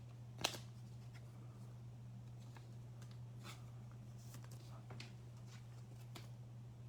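Faint clicks and rustles of trading cards and card packs being handled, with one sharper click about half a second in, over a steady low hum.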